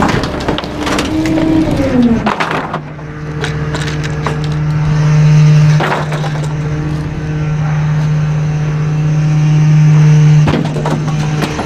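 Rear-loader garbage truck's hydraulic packer crushing bulky items. Crackling and snapping of breaking material come first, with the engine pitch shifting. Then the engine and hydraulics hold a steady low hum under load, broken by a couple of sharp cracks.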